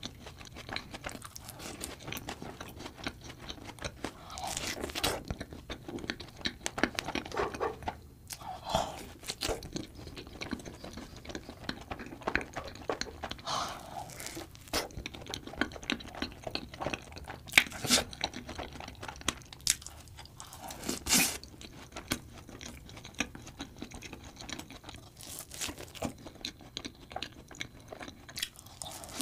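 A person biting into and chewing a cream-and-strawberry-topped donut, with irregular bites and chewing sounds and a few sharper clicks.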